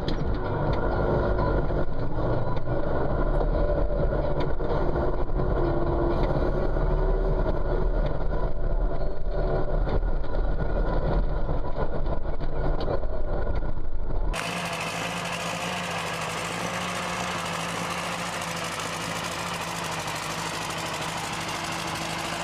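Farm machinery engine running steadily, heavy in the low end. About 14 seconds in, an abrupt cut brings in a different engine with a quieter, even hum at one steady pitch.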